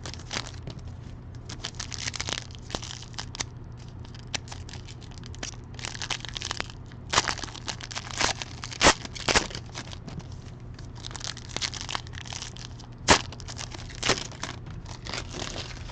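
Cellophane shrink-wrap and foil card-pack wrappers being crinkled and torn open by hand, an irregular run of crackling with a few sharper snaps, over a steady low hum.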